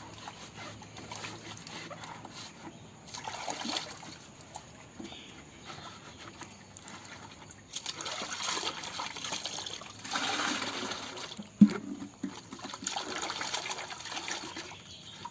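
Water trickling and splashing in uneven spells as poultry drinkers are washed by hand, louder in the second half, with one sharp knock about three-quarters through.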